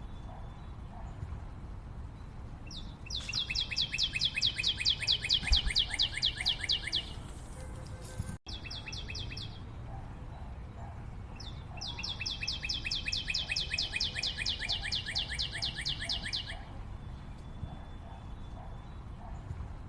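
A bird calling in long, rapid trills of evenly repeated high notes, two runs of about four to five seconds each, separated by a few seconds of low outdoor background with faint softer calls.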